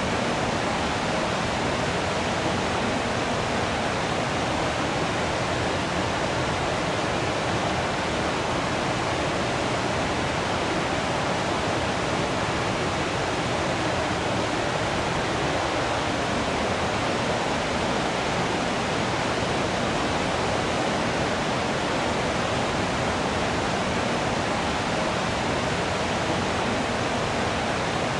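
Waterfall, a steady rush of falling water with no breaks or changes.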